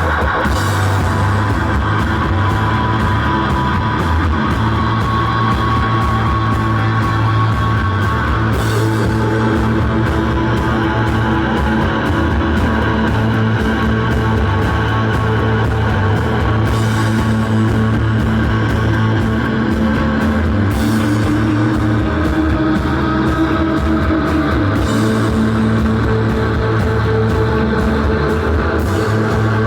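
Live rock band playing loud, dense music: guitars over a steady bass and drum kit, with cymbal crashes every few seconds.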